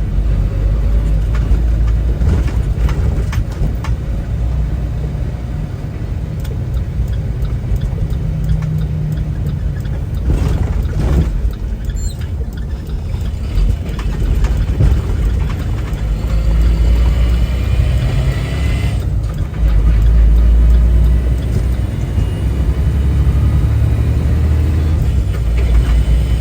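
Steady low rumble of a semi-truck on the road, heard from inside the cab: engine and road noise, with the engine pitch drifting up and down.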